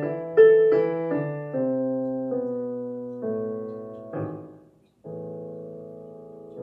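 Solo piano playing a slow passage of struck chords, each left to ring and fade; after a short break about five seconds in, a new chord is held.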